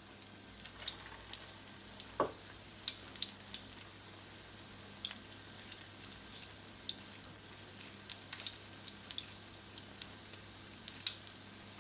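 Chicken and potato cutlets shallow-frying in oil over low heat: a faint, steady sizzle with scattered small crackles and pops.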